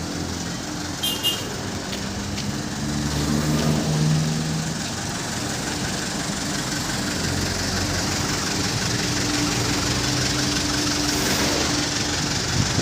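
Heavy truck's engine running steadily under load, with a brief high chirp about a second in.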